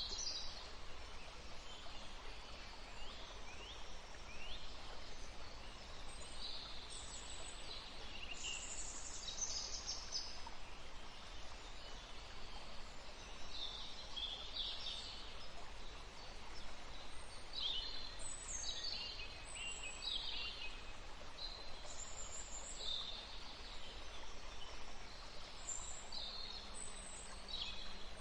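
Several small songbirds chirping and calling in short, high-pitched phrases that come in clusters, over a steady hiss of outdoor background noise.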